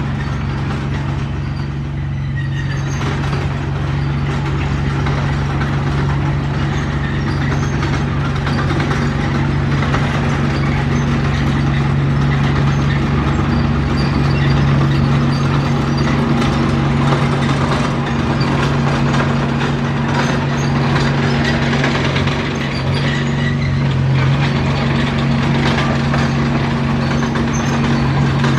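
Diesel engine of a Komatsu D31P crawler bulldozer running steadily under work, with a steady low engine note and mechanical clatter above it.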